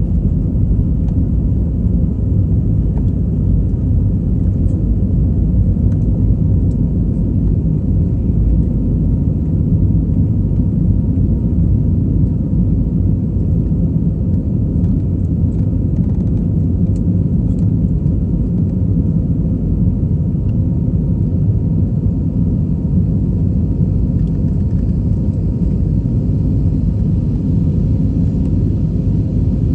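Airliner taking off: a steady, loud low rumble of engines and airframe, with faint steady tones above it.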